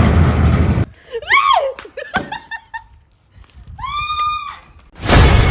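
A loud, noisy din cuts off just under a second in. It is followed by two high-pitched cries from a person, each rising and falling and lasting well under a second, with a few small clicks between them. Loud noise starts again near the end.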